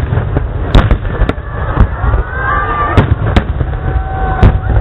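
Fireworks display: about five sharp shell bursts bang over a continuous low rumble of further explosions.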